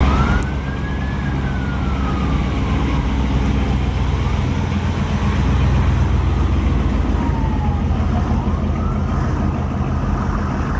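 A vehicle engine running with a steady deep rumble, while a siren wails faintly, its pitch slowly rising and falling.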